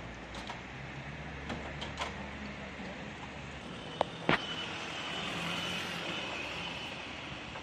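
A motor vehicle running steadily, with a few light clicks and two sharp knocks a fraction of a second apart about four seconds in.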